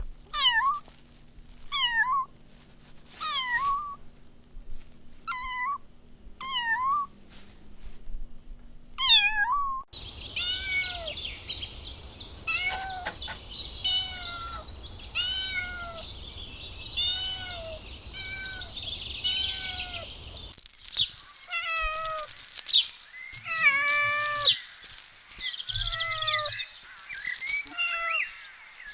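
Kittens meowing over and over in high, drawn-out calls that fall in pitch, about one a second. A few short clips are cut together, and in the middle one a busy chatter of high chirps runs under the meows.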